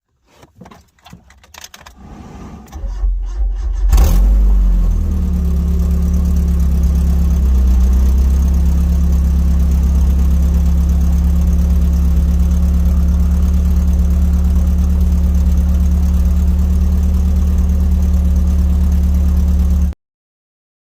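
The Mazda Miata's swapped-in engine cranks over, catches about four seconds in with a brief rev, and settles into a steady idle. The sound stops abruptly near the end.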